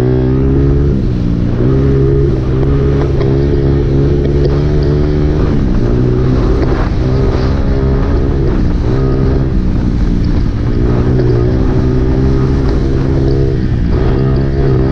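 Honda CRF four-stroke dirt bike engine running hard, its revs climbing and dropping back several times as the throttle is worked.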